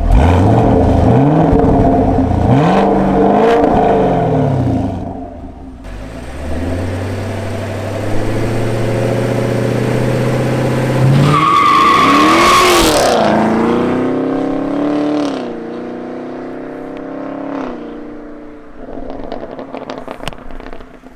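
Chevrolet Camaro SS's 455-horsepower V8 accelerating hard, its note climbing and dropping back with each upshift, then holding steady. About eleven seconds in there is a high tyre squeal as the engine note rises and falls past, and then a further rising run that fades out.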